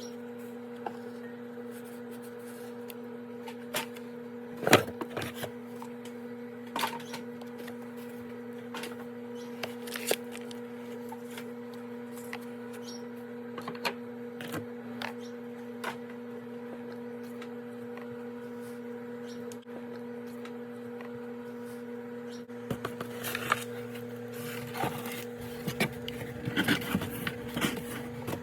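Small household items being picked up, shuffled and set down, giving scattered light clicks and knocks that get busier near the end, over a steady low electrical hum.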